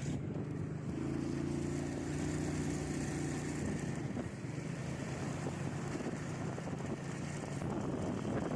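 A vehicle engine running steadily, with road and wind noise. A steady low hum is strongest from about a second in and eases off a few seconds later.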